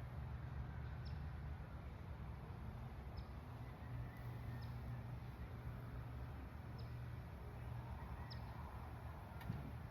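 Faint outdoor nature ambience: a bird repeating a short, high, falling chirp every second or two, five times, over a steady low rumble. A single soft click sounds near the end.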